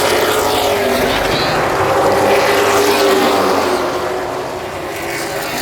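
Race truck engines running at speed around an oval track, several pitched engine notes overlapping, easing down a little from about four seconds in.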